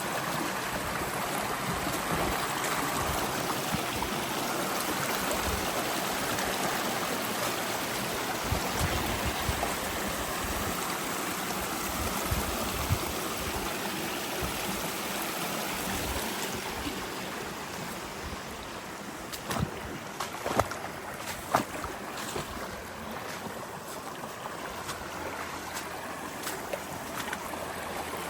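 Creek water running, a steady rushing that eases a little past the halfway point, with a few sharp clicks or knocks about two-thirds of the way through.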